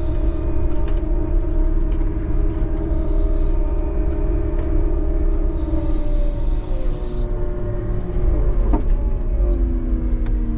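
Snow plow vehicle's engine running steadily with a deep rumble, its pitch dropping over the last few seconds as it eases off.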